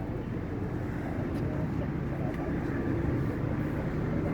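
A motorcycle engine running, with a steady pulsing beat. Voices can be heard faintly in the background.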